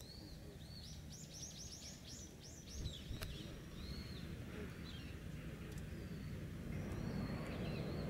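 Small birds calling: a quick run of about ten high chirps about a second in, then scattered single high calls, over a steady low background rumble.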